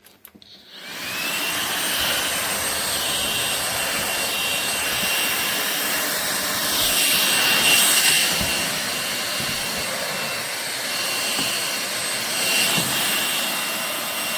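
Ultenic U16 Flex cordless stick vacuum switching on, its motor whining up to speed within about a second, then running steadily with a high whine over a loud rush of air.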